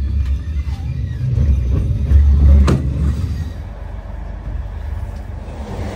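Passenger train running, a steady low rumble that swells about two seconds in, with a single sharp knock near the loudest point.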